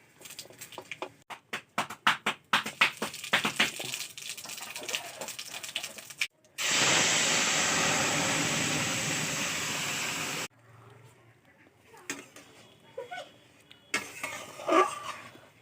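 Kitchen cooking sounds: a run of sharp clinks and taps, then a loud, steady hiss that starts suddenly about six and a half seconds in, lasts about four seconds and cuts off abruptly, followed by a few faint knocks.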